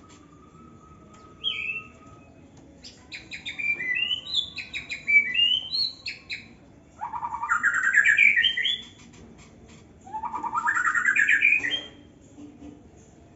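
Young white-rumped shama singing: a short note, a run of rising whistled notes, then two loud rising trilled phrases of about two seconds each in the second half.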